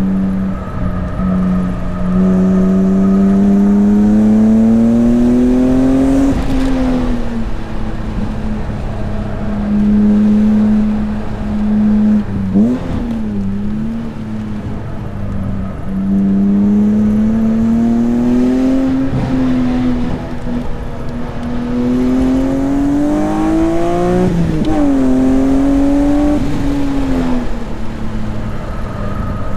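BMW S54 3.2-litre straight-six in an E36 M3 under hard acceleration on track. The engine note climbs in pitch as the revs build and falls sharply at each gear change, several times over, with steady stretches in between.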